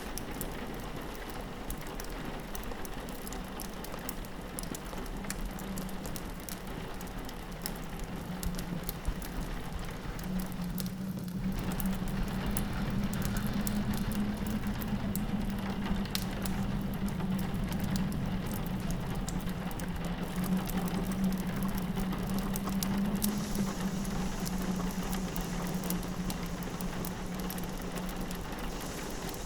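Rain pattering on a window with a fireplace crackling, an even hiss dotted with many small sharp crackles. Under it runs a low steady drone that gets louder about ten seconds in.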